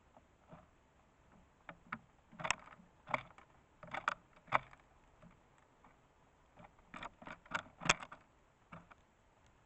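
Eurasian tree sparrow pecking at seeds on a bird feeder: irregular sharp taps and clicks in small clusters, with a lull in the middle.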